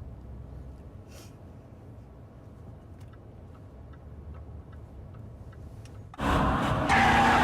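A car engine idles with a low rumble and faint ticking. About six seconds in, loud engine and tyre noise starts suddenly.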